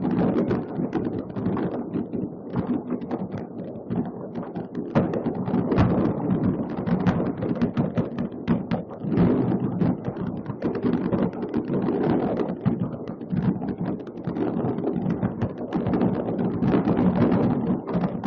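Many fireworks going off at once across a city: a dense, continuous stream of bangs and crackles that swells and eases every few seconds.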